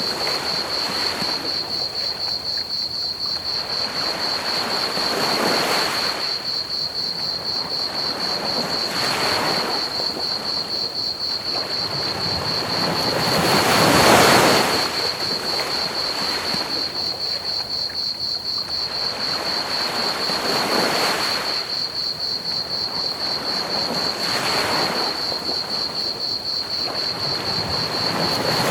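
Ocean waves washing onto a beach in slow surges every few seconds, the largest about halfway through, over a steady pink-noise hiss. A continuous high cricket trill runs over the top.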